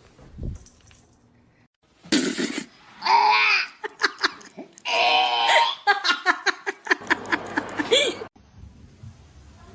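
People laughing in several short bursts, with clicks and short sounds between them.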